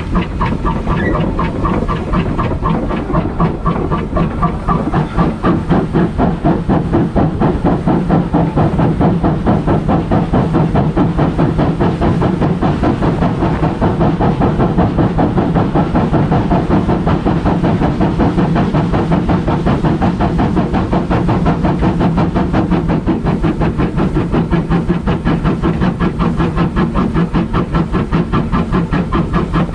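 Steam locomotive running under steam: an even, rapid rhythm of exhaust beats over a steady hiss of steam.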